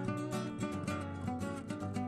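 Music: acoustic guitar playing, plucked and strummed notes at a steady pace.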